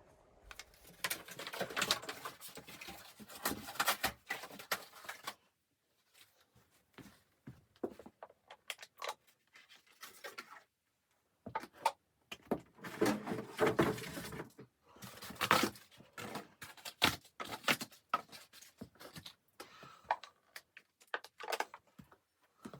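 Irregular clicks, knocks and rustling scrapes of handling and movement, broken twice by a moment of dead silence.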